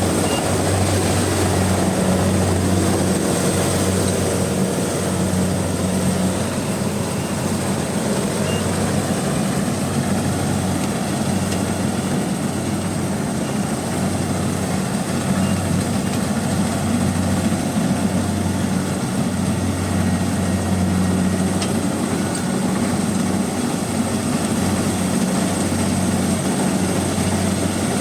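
Rice combine harvester running steadily as it cuts, its engine a continuous low drone with a thin high whine above it.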